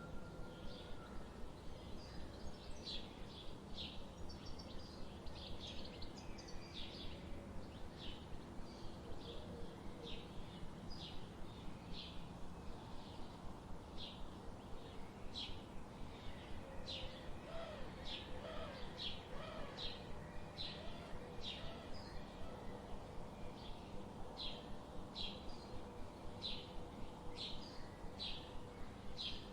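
Forest ambience: a bird repeating short, high chirps at a steady pace, with fainter birdsong lower in pitch and a soft steady background hiss.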